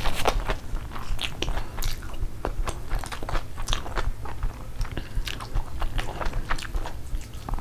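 Close-miked chewing of a mouthful of fried rice, with many quick irregular clicks from the mouth.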